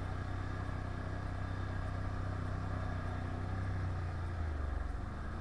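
Can-Am 1000 quad's V-twin engine running steadily while riding, its note dipping briefly about four and a half seconds in.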